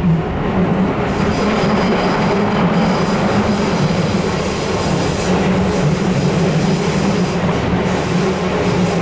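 Electric commuter train running, recorded from inside a car: continuous wheel-and-rail noise with a steady low hum. A faint high whine sits over it for the first few seconds.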